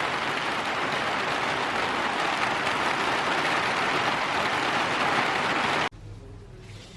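Steady, dense hiss of water, like heavy rain, that cuts off abruptly about six seconds in, leaving quiet room tone with a low hum.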